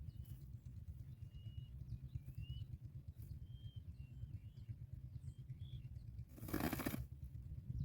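Faint, short, thin whistled bird calls, several single notes, some rising, over a steady low rumble of wind. About two-thirds of the way through comes a loud, brief rustling whoosh.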